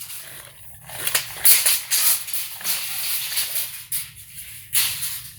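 Hart 25-foot auto lock tape measure being worked by hand: its steel blade slides out of and back into the case with a rattly, hissy scraping in irregular bursts, loudest about a second in and again near the end.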